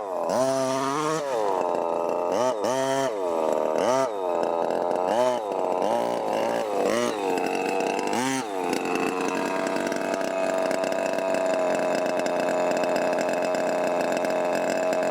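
Small two-stroke petrol engine of a 1/5-scale RC car, revved in a series of quick throttle blips for about eight seconds, then running at a steady speed.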